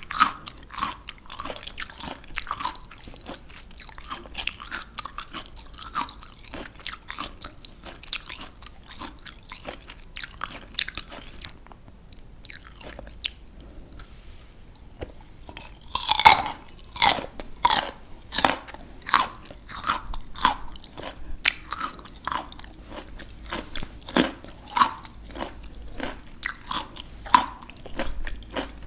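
Crisp raw vegetables being bitten and chewed close to the microphone, with sharp wet crunches one after another. It goes quieter for a few seconds in the middle, then a loud bite is followed by steady chewing crunches.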